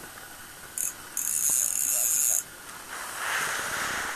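Fishing reel buzzing in two short runs, the second lasting just over a second, as a hooked pike pulls line. A hiss rises near the end.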